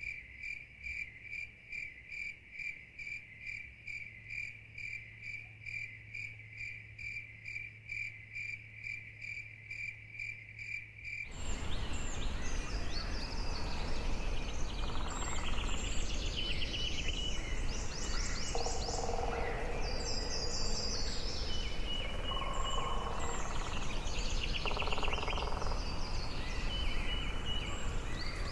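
An insect, cricket-like, chirping in an even pulse of about three chirps a second for roughly the first eleven seconds. It cuts suddenly to a dense chorus of birds calling over insect trills.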